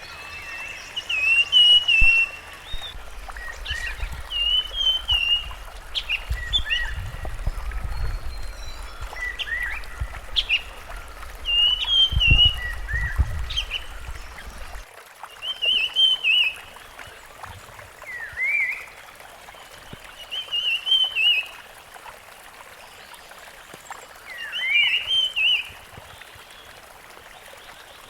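Rusty-fronted barwing calling: short warbling phrases repeated every two to four seconds over a steady background hiss. A low rumble runs through the first half and cuts off suddenly about halfway.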